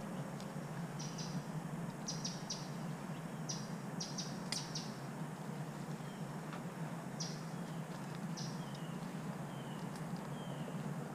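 Birds chirping: short high chirps repeated irregularly, with a few short falling notes in the second half, over a steady low background hum. A single sharp click about halfway through.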